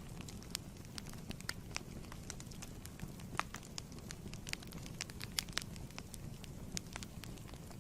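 Fireplace wood fire crackling: a steady low rumble of flames with frequent irregular sharp pops and snaps.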